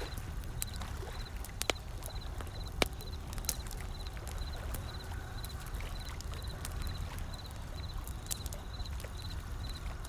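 Wood fire crackling, with scattered sharp pops, over a steady low rumble of ocean surf. A faint, high chirp repeats evenly, about three times a second.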